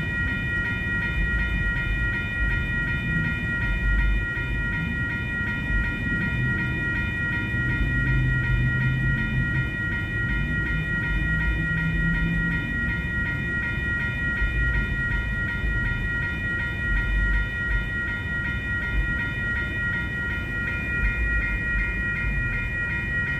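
Freight train rolling past, its railcars giving a continuous low rumble that swells and eases, with a steady high-pitched ringing tone over it.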